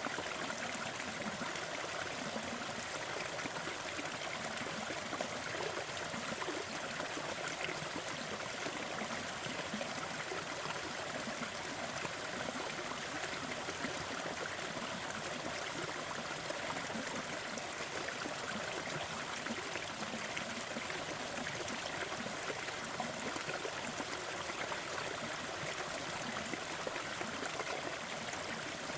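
Waterfall: falling water rushing and splashing in a steady, unbroken stream of sound.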